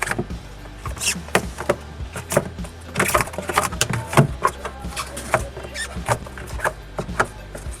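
Irregular clicks, knocks and scrapes of hands and tools working on a refrigerator's inner parts as a panel is loosened, over a low steady hum.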